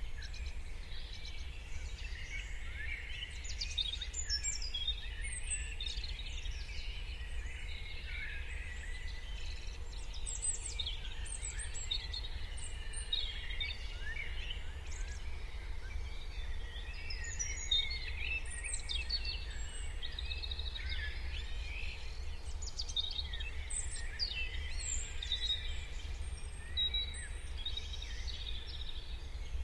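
Morning chorus of many songbirds: overlapping chirps, trills and whistles from several birds at once, over a steady low background rumble.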